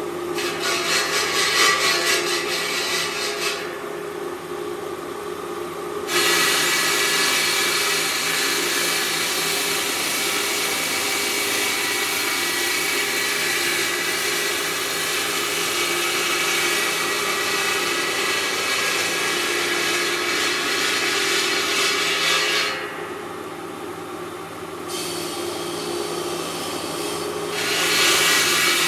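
Stone-working machine running: a steady motor hum under a harsh, hissing scrape of stone being cut or ground. The scrape drops away and comes back abruptly several times.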